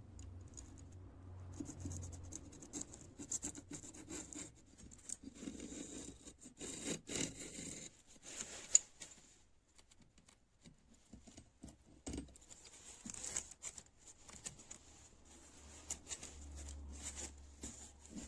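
Irregular scratching and rubbing from hand work on a rusty metal wrench, with scattered small clicks and one sharp click about nine seconds in.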